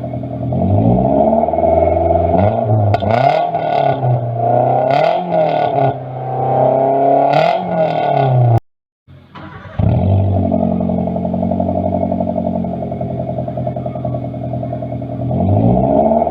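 Petrol car engine revved repeatedly through a stainless steel aftermarket racing muffler, the revs climbing and falling several times in a raspy exhaust note. After a short drop-out about nine seconds in, it idles steadily, then revs up again near the end.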